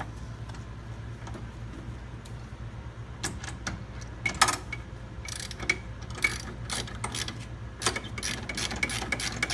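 Ratchet wrench clicking in quick runs as the mounting bolts of a new compressor are turned in, with a sharp metal clink about halfway through. A steady low hum runs underneath.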